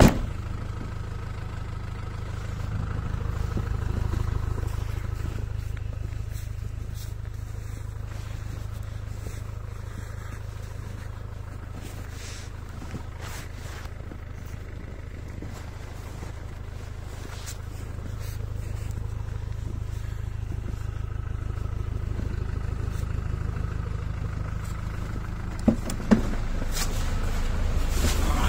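Land Rover Defender engine idling steadily, getting louder near the end. Footsteps crunch in deep snow around the middle, and two sharp knocks come a few seconds before the end.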